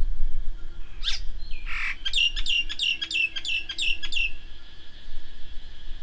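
A songbird calling: a quick falling note, a short harsh call, then a fast run of about nine sharp, repeated falling notes, about four a second, that stops a little past four seconds in.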